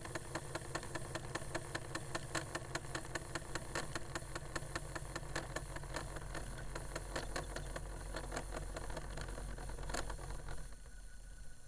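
1980s Discman portable CD player's spindle motor whirring with a rapid, steady rattle of clicks as it keeps trying and failing to spin the disc up to speed: it no longer has enough power. The sound stops near the end.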